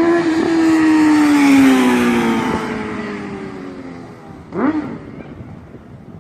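Honda CBR650F's inline-four engine through a Yoshimura exhaust passing by at speed, its pitch dropping as it goes by and the sound fading away. A brief rising honk comes about four and a half seconds in.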